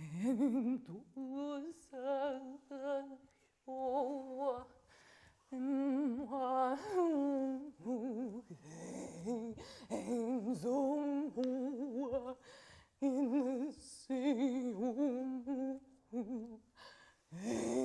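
A woman's voice singing wordless held notes with a wide, wobbling vibrato, in short phrases broken by brief pauses.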